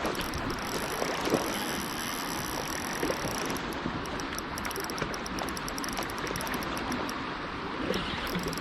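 Steady rushing of river water with wind on the microphone, and a few faint clicks.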